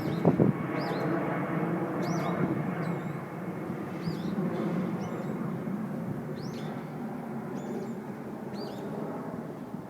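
Small songbirds in the cherry trees giving short, high, down-slurred chirps about once a second, over a steady low background rumble, with a brief thump near the start.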